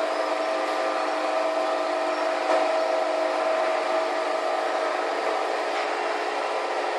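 Electric motor of a paper corner-rounding machine running steadily, a constant hum with a faint tick or two.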